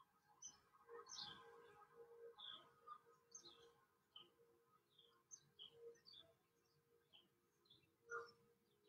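Faint small birds chirping repeatedly, short high notes about one or two a second, over a low steady hum; otherwise near silence.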